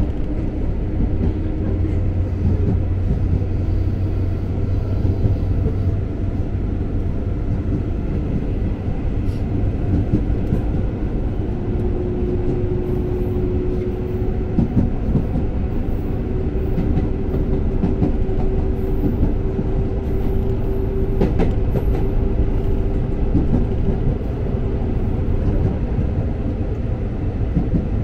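Electric commuter train running along the line, heard inside the carriage: a steady rumble of wheels on rails with scattered clicks. A faint steady motor hum comes in about halfway through.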